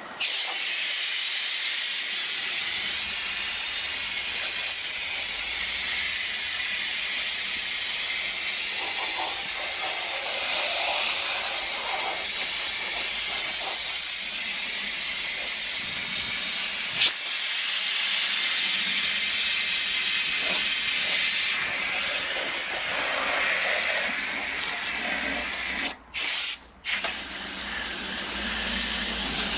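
Water hissing steadily from a hose-end coil gun sprayed onto an air-conditioner condenser coil, to wash cleaning foam out of the fins. The spray cuts off briefly twice near the end.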